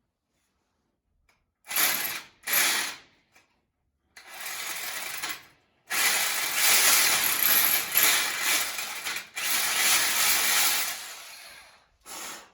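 A small drill boring into a concrete foundation wall in bursts: two short ones, then longer runs of several seconds each with a rattling, grinding sound.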